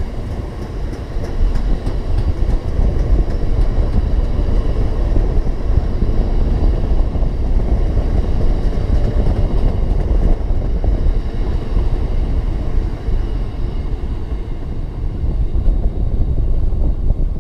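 Freight train of bogie hopper wagons rolling past on the rails: a steady low rumble of wagon wheels running over the track.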